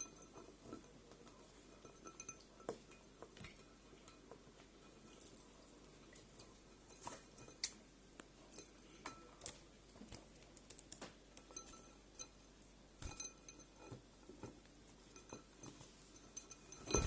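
Scattered light taps and clicks of a budgie pecking and moving about in a glass dish, ending in a louder knock.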